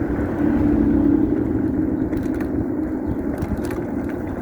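Wind rumbling on the microphone of a moving dual-motor electric bike, over a steady hum from the bike's motors and tyres on the road, with a few faint ticks.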